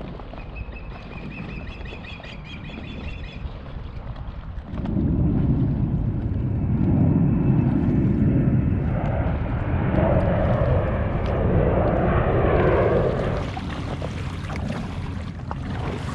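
Wind buffeting the microphone over open water while paddling an inflatable kayak, a steady low rumble that gets much louder about five seconds in. A faint high-pitched tone sounds during the first few seconds.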